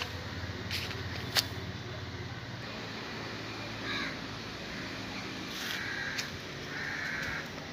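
A bird calling a few times in short calls, about four, six and seven seconds in, over a steady low background hum. A sharp click comes about a second and a half in.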